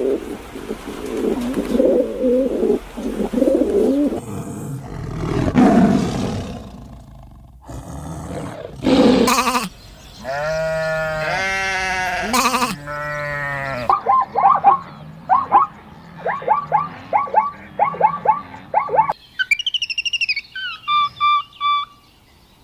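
A run of different animal calls, one after another. Low rough calls come first, then long calls falling in pitch, then a quick series of short repeated calls, and high chirps near the end.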